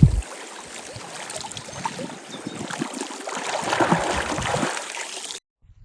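Water lapping and splashing, an even rushing wash with small crackles that swells louder about four seconds in. A brief low thump comes at the start, and the sound cuts off suddenly near the end.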